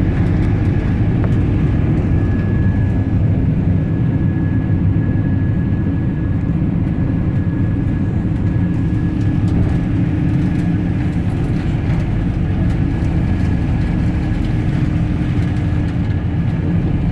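Steady low rumble of a moving vehicle with a thin, steady high whine over it.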